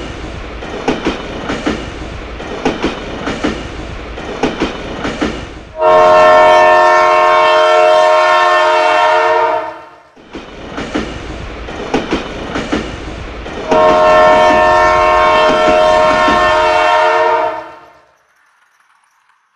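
Train wheels clattering in a clickety-clack rhythm, then a loud horn held for about four seconds; the same clatter-and-horn sequence comes round a second time and fades out near the end.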